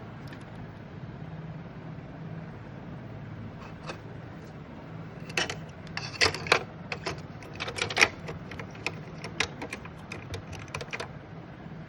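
An irregular run of sharp clicks and clatter, about half a dozen seconds long starting about five seconds in, over a steady low hum: hands handling and snapping the plastic and metal parts of an Epson L-series ink tank printer during repair.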